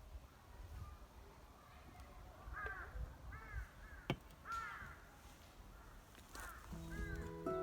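A bird calling repeatedly in short arched calls, with one sharp click about four seconds in; background music starts near the end.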